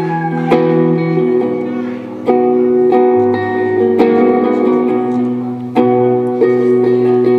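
A guitar played live in slow, ringing strummed chords, a fresh strum every second or two: the instrumental opening before the singing comes in.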